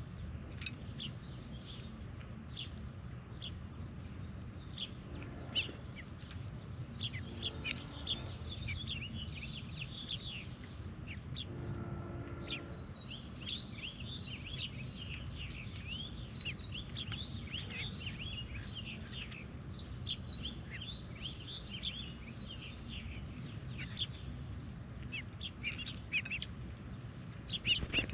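Birds chirping and calling, a dense run of many short, quick downward chirps that is busiest through the middle, with a few scattered clicks and a couple of brief lower calls, over a low steady rumble.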